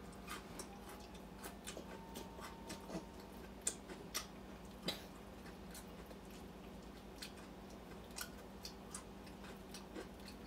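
A person chewing braised pork, with irregular soft mouth clicks and smacks, over a faint steady hum.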